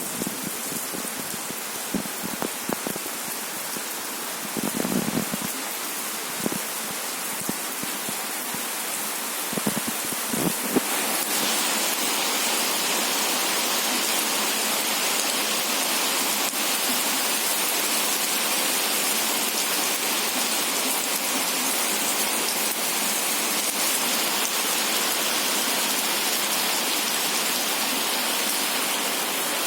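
Steady rain hiss, with a few short low thumps in the first ten seconds or so; the rain grows slightly louder and denser about eleven seconds in.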